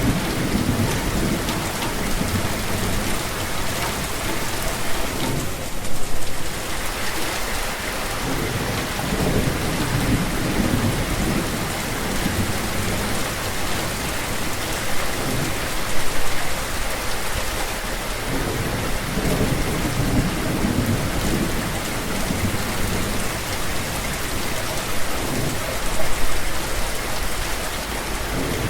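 Steady heavy rain falling on surfaces, with low rumbles of thunder rising and fading every few seconds.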